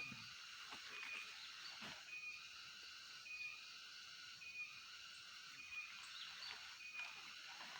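Quiet outdoor nature ambience: a short high call repeats evenly about once a second over a steady high hiss, with a few faint knocks.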